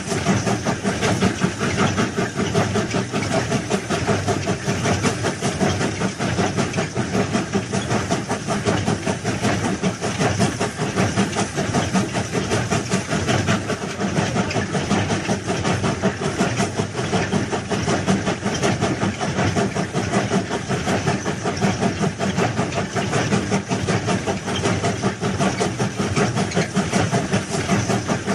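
Train running steadily: a continuous mechanical noise with a fast, even pulsing and some hiss, unbroken throughout.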